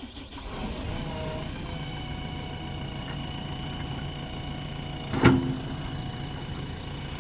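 Heavy diesel engine running steadily at a constant speed, with one sharp metallic knock about five seconds in.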